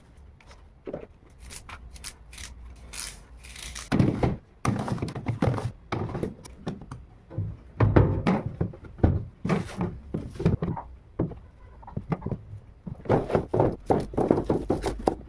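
Vegetables and storage containers being handled and set down, making irregular thunks and knocks. The knocks are sparse at first, grow busy about four seconds in, and cluster again near the end.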